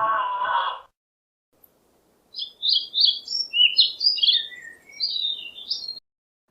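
A songbird singing a quick, varied run of high chirps and warbles for about four seconds over a faint hiss. Before it, a different held, pitched sound cuts off within the first second.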